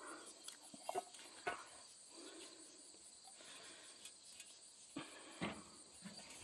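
Faint steady chirring of insects, with a few soft clicks and handling noises from working the cap off an oil bottle.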